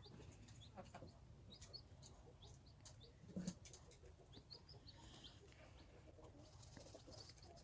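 Chicks peeping faintly: many short, high, rising cheeps at an irregular pace, with one brief low sound about three and a half seconds in.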